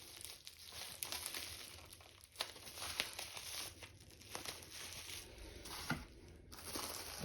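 Packaging being handled during unpacking: crinkling and rustling, with a few sharp clicks of parts being moved.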